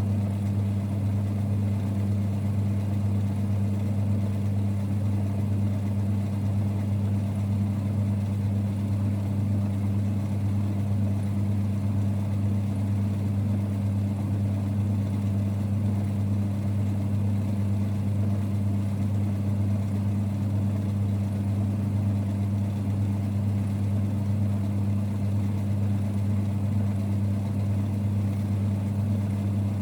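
Vintage 1946 Boxford lathe running at a constant speed: a steady, even rumble with a strong low hum.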